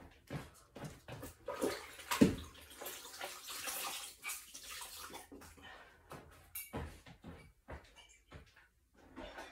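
Room-cleaning noises: a run of knocks and clatters, the loudest a sharp knock about two seconds in, with a rushing, water-like hiss from about three to five seconds.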